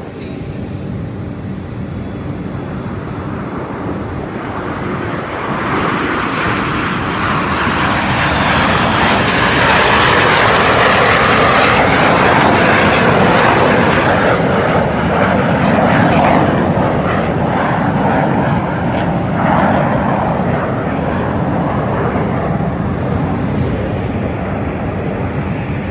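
An aircraft's engines passing overhead, a loud noise that builds over several seconds, is loudest near the middle, and then slowly fades.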